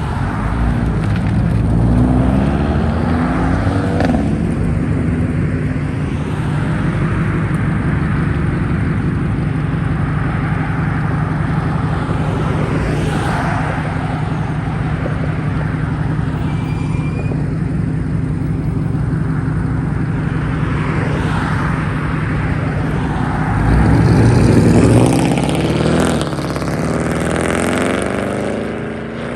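A car's engine running loud with a steady low drone, revving up as the car pulls away in the first few seconds and revving harder again near the end.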